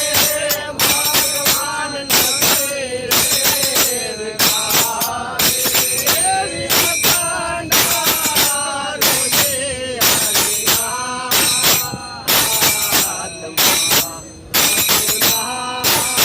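Devotional bhajan sung by a voice with held, sliding notes over a steady beat of sharp percussion strikes.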